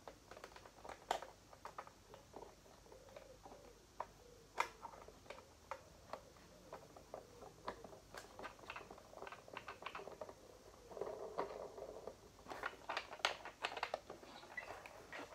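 Irregular light clicks and knocks with some rustling, from hands handling a plastic toy helicopter and its packaging, a denser stretch of rustling and clicking about three quarters of the way through.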